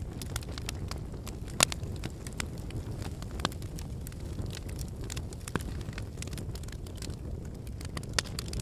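Campfire burning: a steady low rush of flames with irregular crackles and pops from the burning firewood, the sharpest pop about a second and a half in and another near the end.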